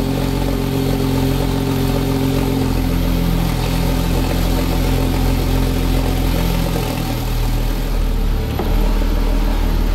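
Porsche 997 Turbo's Mezger twin-turbo flat-six idling steadily on its first run after an engine rebuild with re-timed intake camshafts and new coolant pipes.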